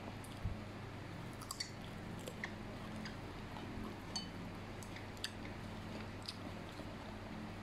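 Close-up chewing of fried yellow noodles and a raw red chili, with soft squishes and a few small sharp clicks of chopsticks against the plate, over a faint steady low hum.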